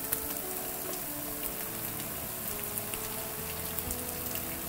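Masala-coated prawns sizzling and crackling in hot oil in a kadai with fried onions, stirred with a spatula. Soft background music with held notes plays underneath.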